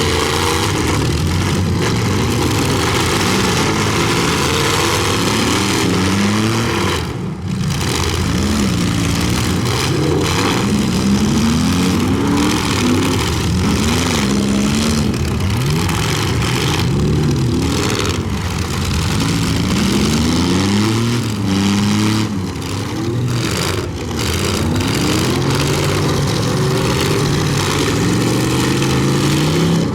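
Several pickup truck engines revving up and down at once, their pitches rising and falling over one another, as the trucks drive and ram in a demolition derby heat.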